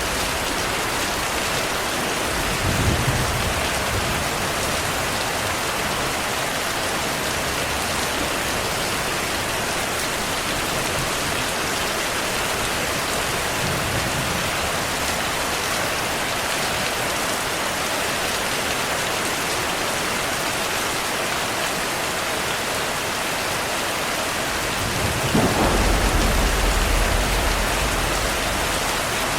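Heavy rain falling steadily, with distant thunder rumbling low about three seconds in and again around fourteen seconds, then a longer, louder roll of thunder near the end.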